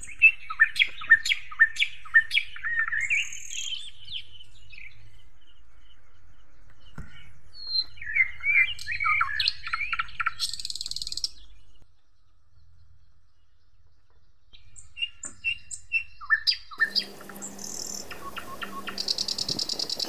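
Songbirds chirping and calling in several short bouts with pauses between them. About three-quarters of the way through, a steady hum and a high buzzing come in under the chirps.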